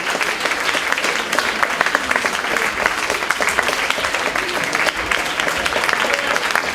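Concert audience applauding steadily: dense, continuous clapping.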